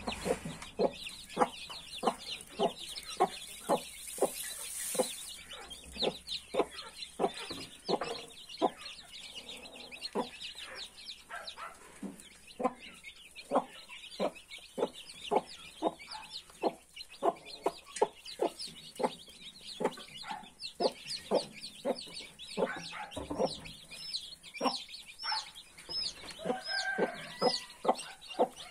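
A mother hen clucking steadily, short calls at about two a second, with her newly hatched chicks peeping faintly and high above.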